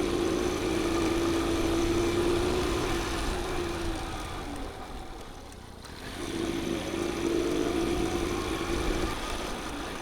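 Motorbike engine running steadily while riding, with a low rumble beneath. It drops away for a couple of seconds near the middle, then picks up again.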